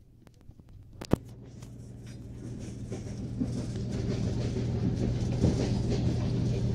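Train running, a steady low hum with scattered sharp clicks that grows steadily louder; one loud click comes about a second in.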